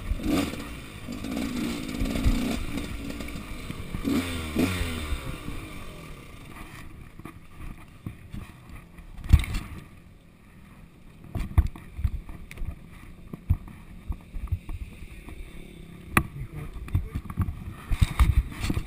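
Motocross bike engine running at low speed, its pitch dipping about four to five seconds in, then falling away about six seconds in as the bike stops. After that come scattered sharp knocks and clatter.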